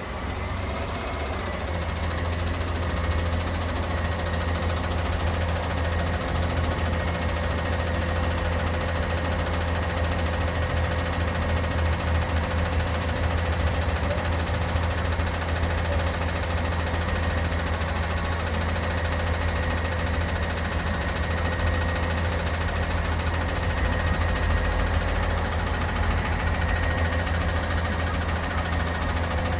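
Garbage truck's diesel engine idling steadily with a low, even hum.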